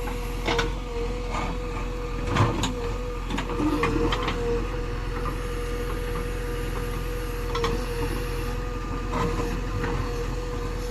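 JCB 3DX Eco Xpert backhoe loader's diesel engine running steadily, with a constant whining tone over it and scattered clanks and knocks from the working machine.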